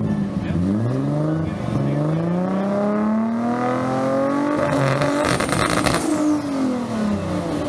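A car engine revving up slowly and then dropping back, with a short crackle at the top of the rev.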